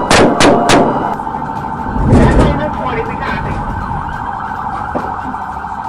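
Police car siren sounding steadily during a chase. In the first second a quick run of sharp cracks, and about two seconds in a brief low rumble.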